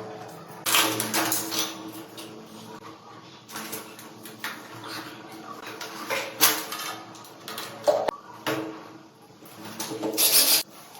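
Irregular metallic clinks, clanks and scrapes of plumbing tools and metal fittings being handled and fitted during a diverter install.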